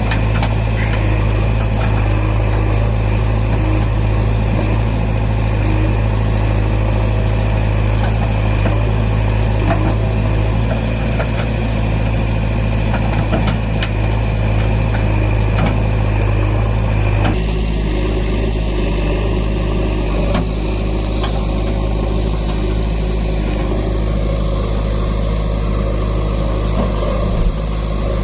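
Heavy diesel engine running steadily with a deep hum; its note changes about two-thirds of the way through, with a few light knocks in the first half.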